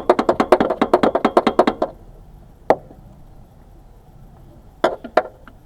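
A fast run of sharp knocks, about ten a second, that stops about two seconds in, followed by a single knock and then two more near the end.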